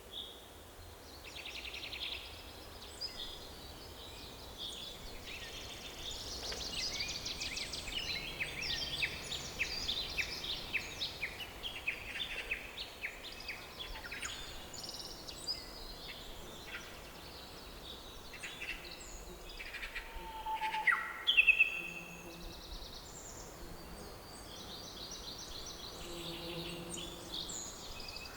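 Several songbirds singing and chirping together in rapid high trills and twitters, over a faint steady low rumble. A louder short call rings out about two-thirds of the way through.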